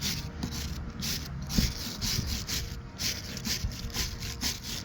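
Rapid back-and-forth scraping strokes, about three a second, steady and rhythmic, like a hand tool or brush worked over a surface.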